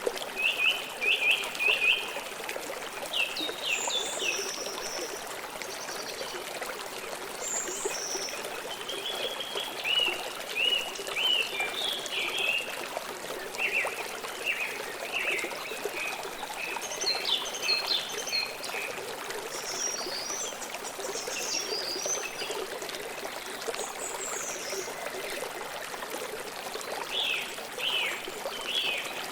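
A forest river flowing with a steady rush, while small birds chirp and trill in short repeated phrases throughout.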